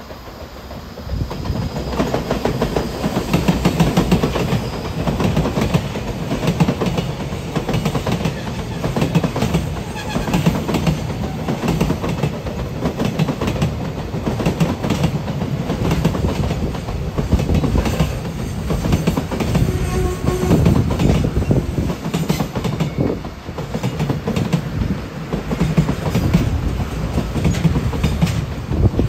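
Freight train of container wagons rolling past, the wheels clicking over the rail joints over a steady rumble. The noise comes up about a second in and then stays loud.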